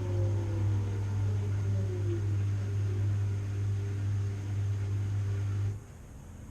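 Washing machine running with a steady low hum, its motor whine falling in pitch over the first couple of seconds as the drum slows. The hum cuts off suddenly near the end, leaving a faint hiss.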